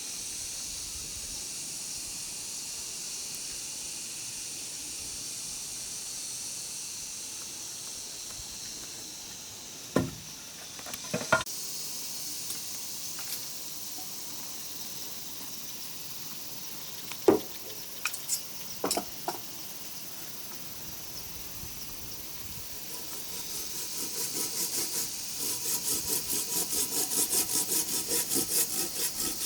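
A hand saw cutting wood in quick, even back-and-forth strokes, about three a second, that start about three-quarters of the way through and grow louder. Before that, a steady high hiss with a few sharp knocks of wood on wood.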